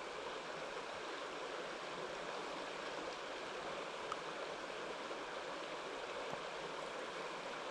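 Mountain stream water running, a steady even rush.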